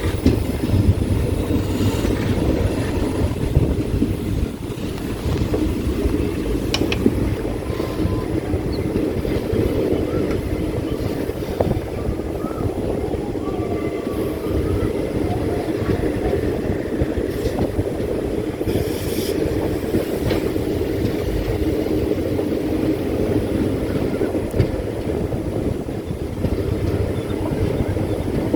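Steady rumble of a moving passenger train, heard from inside the coach while it runs between stations.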